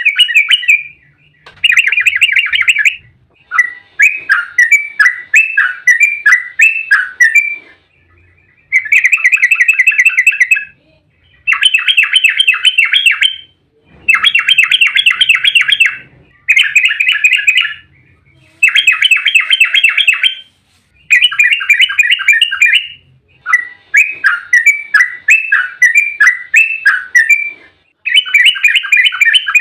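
Yellow-vented bulbul (trucukan) singing fast, excited 'ropel' song: bursts of rapid bubbling, chattering notes, each about two seconds long, repeated again and again with short pauses. Song of this kind is used as a lure to provoke other trucuk into answering.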